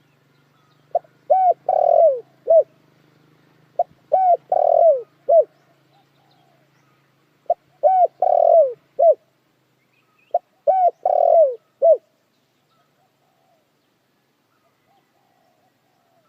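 A dove cooing in four repeated phrases, about one every three seconds. Each phrase is a short note, two longer notes and a short closing note.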